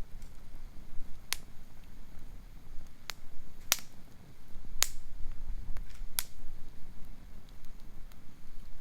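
Campfire of gathered forest wood crackling, with five sharp, separate pops spread out a second or so apart over a low background rumble.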